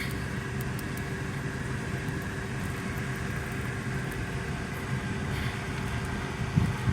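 Steady drone of a car's engine and road noise heard from inside the cabin while driving.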